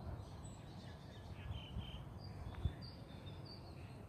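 Faint outdoor ambience: a few short, high bird chirps over a low rumble, with a single click about two and a half seconds in.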